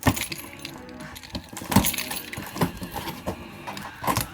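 A cardboard mystery box being handled and opened by hand: an irregular run of sharp knocks, clicks and scrapes.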